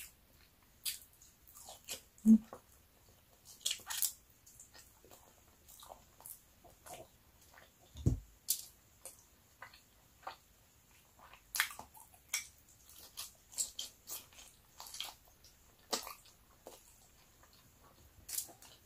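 Close-up chewing and wet mouth smacks of someone eating rice and braised pork by hand, with scattered short clicks. Two dull thumps stand out, the louder about two seconds in and another about eight seconds in.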